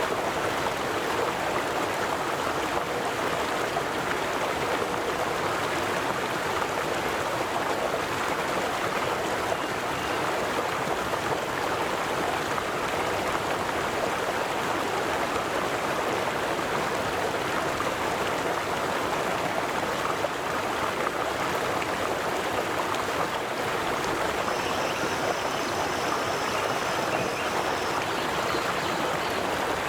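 River water flowing and rushing in a steady, even wash. A faint high thin tone joins in over the last few seconds.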